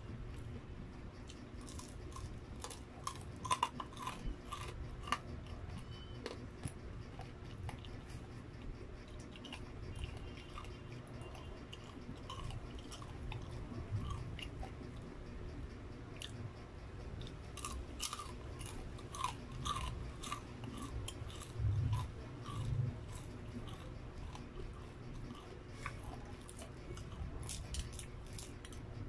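Close-up chewing and biting of crispy breaded fried chicken: wet mouth sounds with many sharp crunches and crackles of the coating. Two low thumps stand out about three-quarters of the way through.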